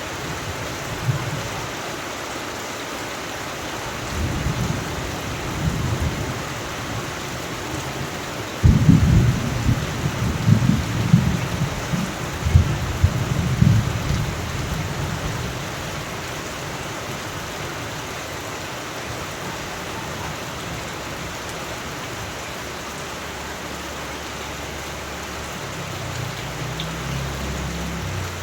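Steady rain with thunder: a few low rumbles, then a sudden thunderclap about nine seconds in that rolls on for about five seconds, and a faint rumble near the end.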